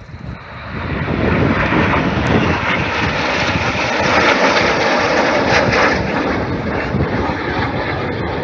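Jet noise from a formation of nine BAE Hawk T1 jets flying past, a loud steady rush that builds over the first second and then holds.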